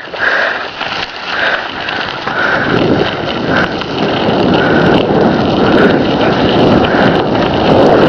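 Wind buffeting the microphone and tyre noise from a bicycle rolling downhill, getting louder about three seconds in as it picks up speed, with a faint regular beat about once a second.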